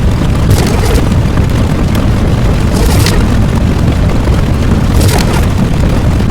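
Loud, continuous rumbling explosion sound effect, with a brighter crackling flare roughly every two seconds.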